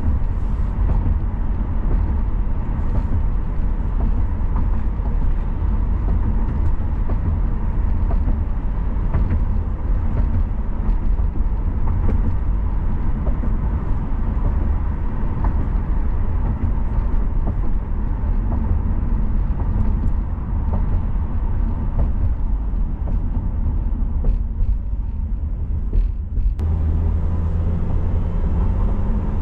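Car driving on a city road: a steady low rumble of tyres and engine. Near the end, the higher road hiss drops away and a steadier low hum takes over.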